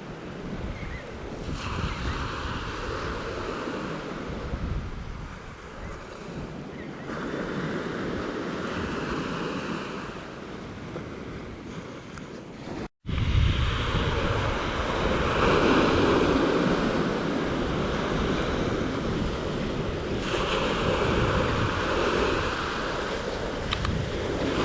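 Ocean waves breaking on a beach, the surf swelling and falling away every few seconds, with wind rumbling on the microphone. The sound cuts out for an instant about halfway through, and the waves come back louder after it.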